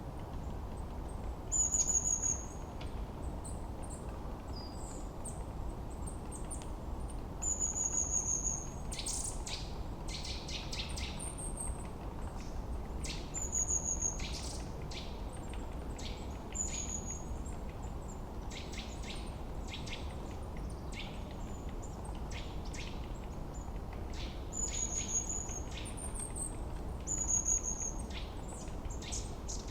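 Forest birds singing over a steady background hiss. A short, high, slightly falling whistle repeats every few seconds, with runs of quick chirps in between.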